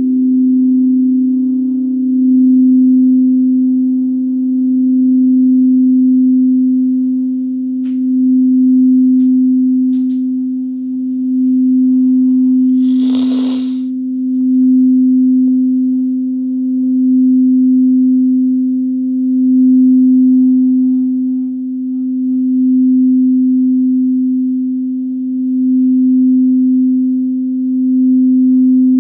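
Singing bowl sounding one sustained low tone with a fainter overtone above it, swelling and fading in slow waves every two to three seconds as it is played. About halfway through there is a short rustling burst.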